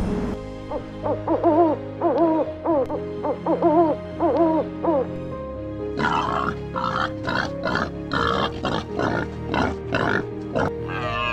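Series of short pitched animal calls, each rising and falling, followed by a quick run of rough, noisy grunting sounds, over steady background music.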